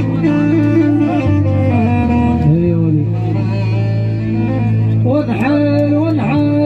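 Electronic keyboard (Arabic org) playing an ornamented melody over sustained bass notes, with sliding pitch bends about five seconds in.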